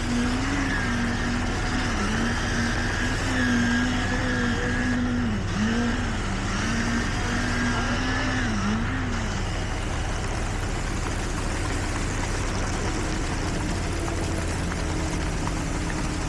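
Heavy construction machinery running with a steady low engine hum. A pitched whine over it wavers and dips repeatedly for the first half, then gives way to a steadier tone near the end.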